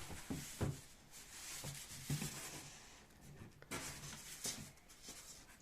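Polystyrene foam sheets being handled and marked: faint rustling and scraping with a few light knocks.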